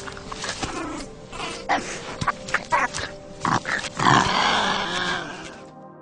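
Wolverine calling in a string of short harsh sounds, with a longer, louder call about four seconds in, over soft ambient background music. The animal sounds stop shortly before the end, leaving only the music.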